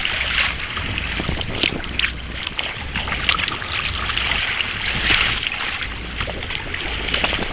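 Water splashing and sloshing around a kayak as it is paddled, in surges every couple of seconds, with a few sharp splashes and a low rumble of wind on the microphone.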